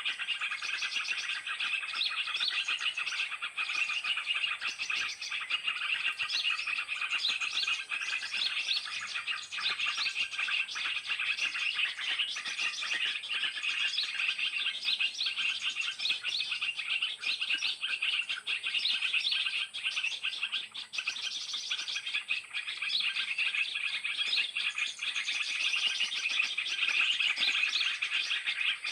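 A 'suara burung ribut' bird-trapping lure: a dense, unbroken chatter of many small birds chirping at once, kept going without pause to draw birds down to the trap.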